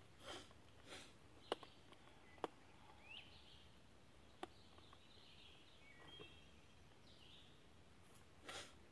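Quiet handling noise from cord being worked through the lacing of a bark quiver: a few soft rustles and several sharp clicks, the sharpest about one and a half and two and a half seconds in. Faint birdsong chirps behind.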